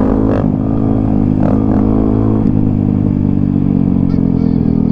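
Dirt bike engine running at steady riding revs, its pitch dipping slightly about halfway and then climbing gently.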